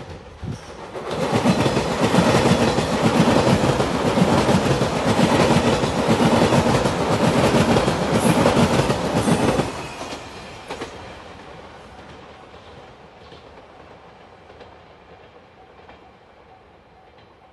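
An Anpanman-liveried JR Shikoku limited express train passing close by, its wheels clicking over the rail joints. The noise builds about a second in, cuts off sharply near ten seconds as the last car goes by, then fades away.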